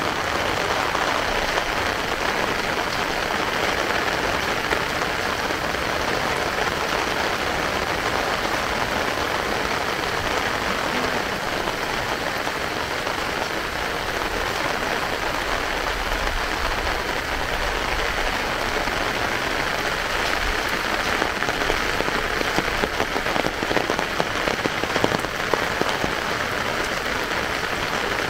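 Heavy rain falling steadily as an even, dense hiss, with a run of sharper, louder taps near the end.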